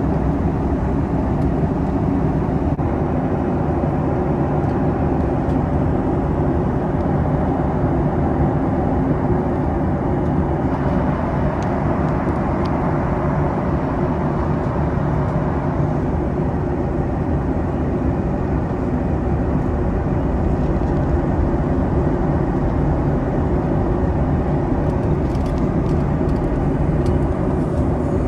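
Steady cabin noise inside a Boeing 737 MAX airliner in flight: an even rush of airflow and engine noise, heavy in the low end.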